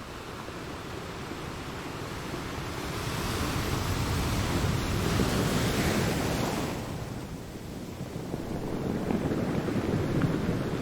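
Ocean waves breaking on a shore: the surf swells to a loud hissing rush in the middle, falls away about seven seconds in, and the next wave builds near the end.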